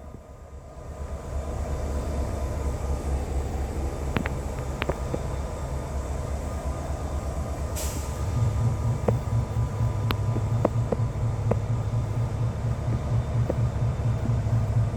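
Diesel freight locomotive idling with a steady low rumble. About eight seconds in there is a short hiss, then the engine note gets louder and fuller, with scattered light clicks throughout.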